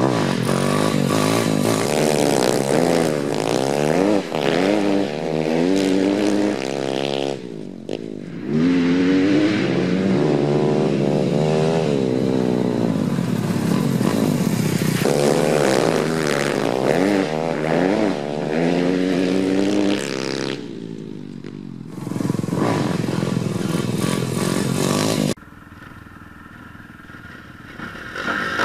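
Four-stroke dirt bike engine revving hard, its pitch climbing and dropping back again and again, over a rushing wind noise. A few seconds before the end it falls to a much quieter, low running.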